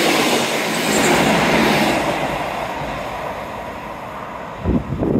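Diesel multiple-unit passenger train passing close by on the line beside the seawall, its wheels and engine loud at first and then fading steadily as it pulls away. A few short bumps of wind on the microphone near the end.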